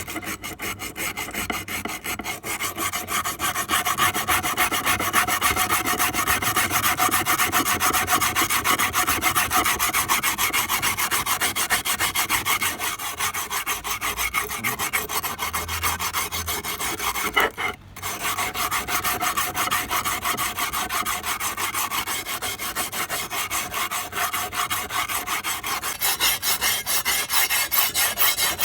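Hand filing in rapid, steady scraping strokes, with a brief stop about 18 seconds in.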